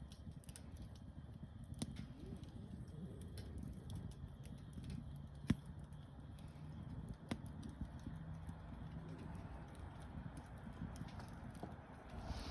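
Wood campfire burning, crackling with a few sharp pops scattered through it over a low rumble.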